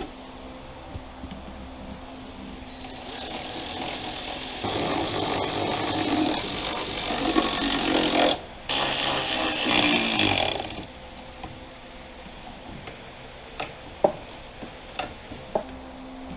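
Power tool running the chaincase cover bolts down, in two long runs with a short break between, followed by a few sharp metal clicks.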